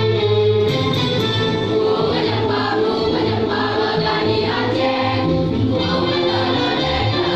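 A choir singing in sustained, held chords.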